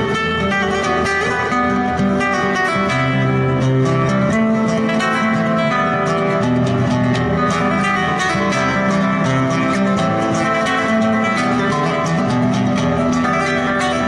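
Acoustic guitar played solo in a flamenco style, fast plucked notes over a steady moving bass line.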